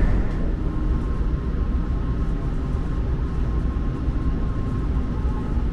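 Low, steady rumble and hum inside a Shinkansen carriage at a station platform, with a faint steady tone above it.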